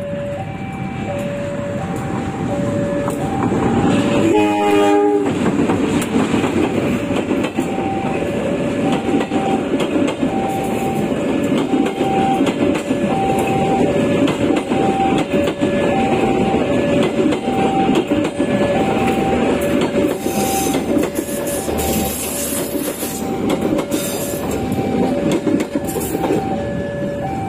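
Diesel locomotive sounds its horn once, about a second long, about four seconds in, then hauls a parcel train of vans past at close range with continuous wheel-on-rail rolling and clatter. Throughout, the level crossing's warning bell alternates between two tones.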